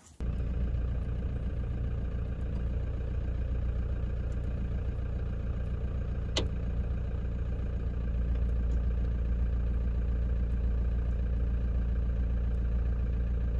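Toyota Hilux engine idling steadily, a low even hum that gets slightly louder about halfway through, with a single sharp click about six seconds in.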